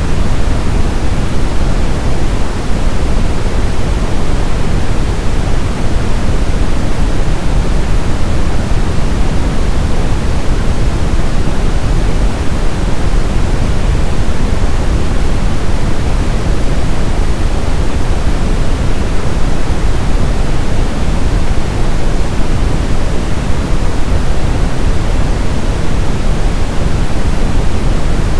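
Steady brown noise: a continuous, even hiss weighted toward the low end, deep and rumbling with little treble.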